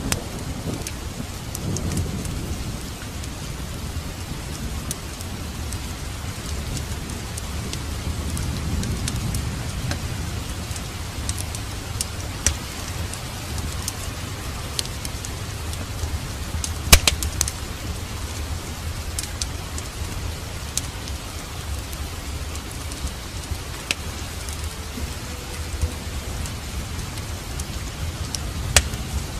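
Steady rain, with a rumble of thunder dying away over the first few seconds. Scattered sharp pops of a crackling fireplace fire sound over the rain; the loudest comes about halfway through.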